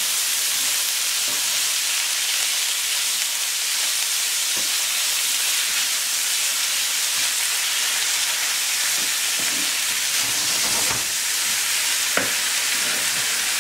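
Ground beef with chopped peppers, onion and tomato sauce sizzling in a frying pan while being stirred with a wooden spoon: a steady frying hiss with a few soft scrapes and knocks of the spoon against the pan.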